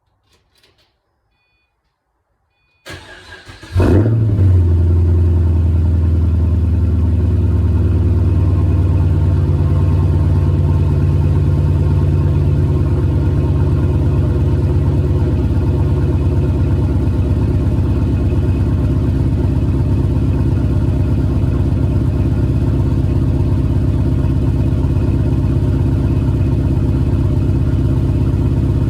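2004 Pontiac GTO's LS1 5.7-litre V8, fitted with JBA shorty headers and the stock exhaust, cranks for about a second a few seconds in and catches at once. It then runs at a steady cold-start fast idle, its exhaust leak repaired.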